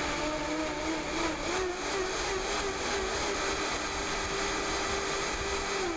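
Countertop blender motor running steadily at a held, slightly wavering pitch, blending soaked cashew nuts with water and lemon juice into a smooth cream.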